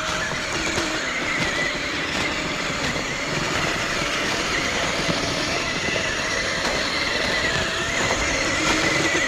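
Small electric motors of radio-controlled snow vehicles whining with a wavering pitch as they drive through snow, over a steady rushing noise.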